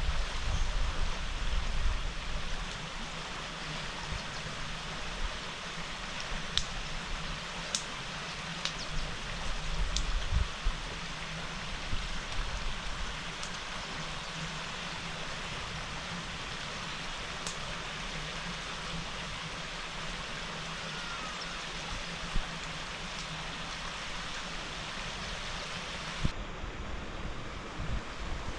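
Steady rushing of water, with a few light ticks.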